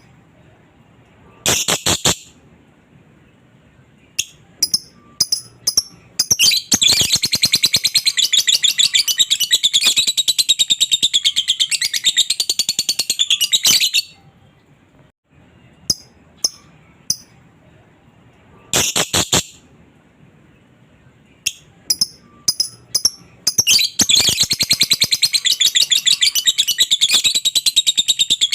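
Lovebird song: a few sharp, single high chirps, then long runs of rapid, high-pitched chattering, twice, with a short break between.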